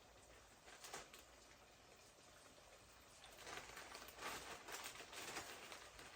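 Faint crackling and sizzling of fish deep-frying in hot oil, with a short flare about a second in and busier popping from the middle onward.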